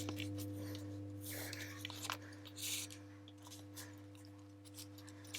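Soft background music holding one steady low chord, with faint rustles and light taps of paper and card being handled as paper birds on sticks are slipped into a paper pocket.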